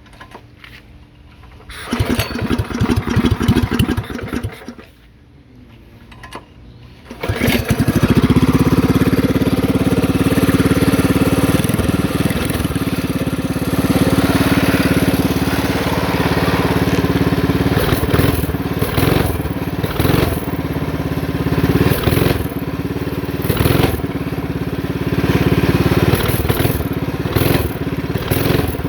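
Coleman CT200U mini bike's single-cylinder four-stroke engine, with a Stage 2 kit, custom intake and exhaust and a re-jetted carburettor. It runs for about two seconds and dies, then starts on the next try about seven seconds in and keeps running, with several short throttle blips in the second half.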